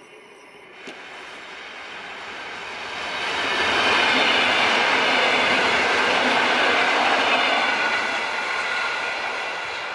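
EN57AL electric multiple unit pulling out and passing close by: wheels running on the rails with a steady high whine over the rumble, growing louder, at its loudest through the middle, then easing off near the end.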